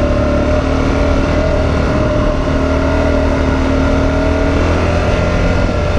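Suzuki DRZ400's single-cylinder four-stroke engine running at a steady speed, with no revving.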